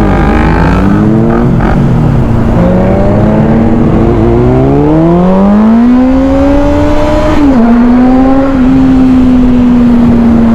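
A vehicle engine accelerating, its pitch rising steadily for several seconds, then a quick drop like a gear change about seven and a half seconds in, after which it runs at a nearly steady cruise.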